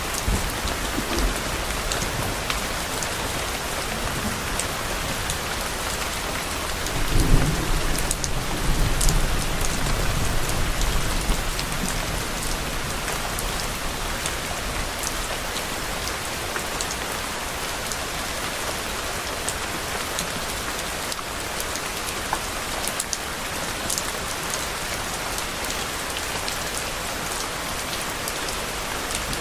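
Steady heavy rain hissing and pattering on a surface, with scattered sharp drop ticks. About a quarter of the way in, a low roll of distant thunder swells up and fades over several seconds.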